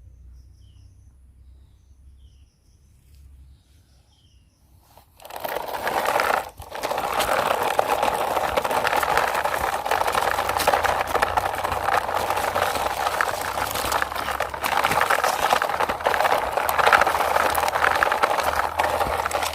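A toy backhoe truck's plastic wheels rolling and scraping over a rough wall surface as it is pushed by hand: a dense, crackly scrape that starts about five seconds in, breaks off briefly, then goes on steadily.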